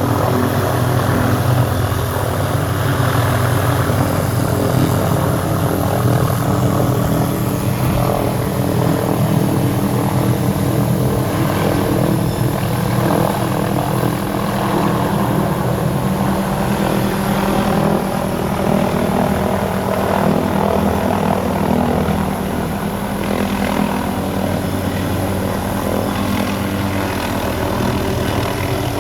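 Helicopter running steadily: a continuous, unchanging engine and rotor hum with several held low tones.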